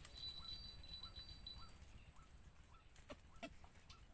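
Faint chirping: a short rising call repeated about two or three times a second. A thin high whistle runs through the first second and a half, and two sharp clicks come near the end.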